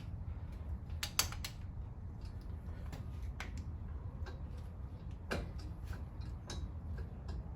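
Hand ratchet clicking in short runs and metal tools clinking while bolts are loosened on a Ford 302 Windsor V8, over a steady low hum.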